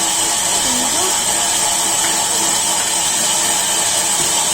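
Sawmill machinery running steadily, a constant hissing whine with a strong high edge.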